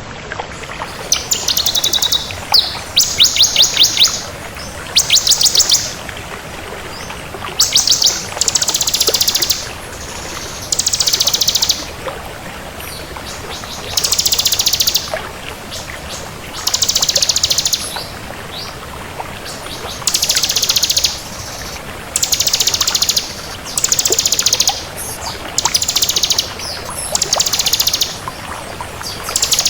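Bar-winged prinia (ciblek kristal) singing vigorously: high, rapid trilled phrases about a second long, repeated every two to three seconds over a steady background hiss.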